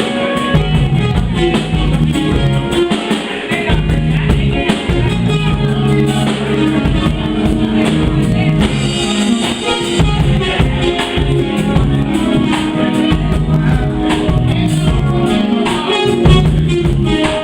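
A live band playing, with drum kit, bass and guitar.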